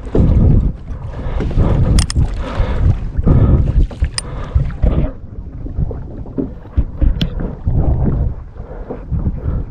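Wind gusting on the microphone in uneven low rumbling surges, over water sloshing against a kayak hull, with a few sharp ticks.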